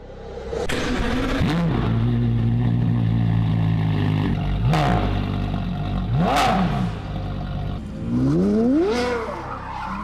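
Porsche Carrera GT's V10 running through a Kreissieg cat-back valved exhaust. It holds a steady note, flicks up and down in pitch twice in quick revs around the middle, then climbs in a long rising rev near the end.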